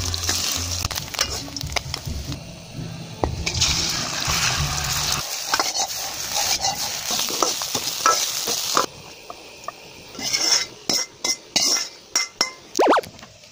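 Food sizzling in a Chinese wok while a metal spatula stirs and scrapes it, followed in the second half by a run of sharp clinks and knocks of metal against the wok.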